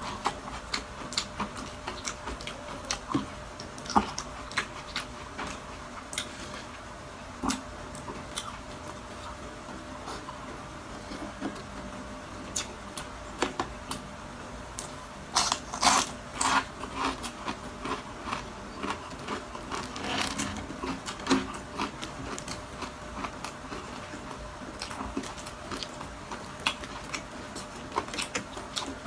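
Close-up crunching and chewing of crispy chicharon bulaklak (deep-fried pork mesentery): irregular sharp crackles, thickest about halfway through and again a few seconds later.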